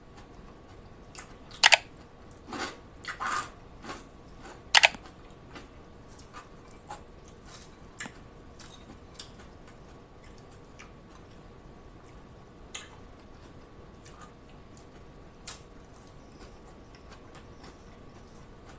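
Close-up chewing of crisp Caesar salad lettuce. There are loud crunches about two and five seconds in, then quieter crackly chewing clicks now and then.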